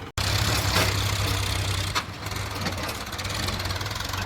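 Tractor engine running steadily, with a few sharp clicks over it.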